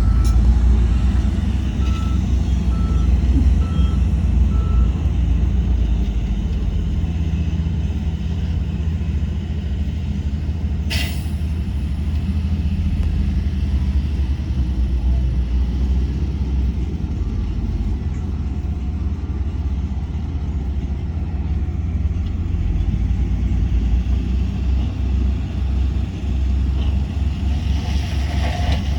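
Heavy diesel earthmoving machinery running steadily with a low engine drone. A reversing alarm beeps about seven times in the first five seconds, and there is one short sharp hiss about eleven seconds in.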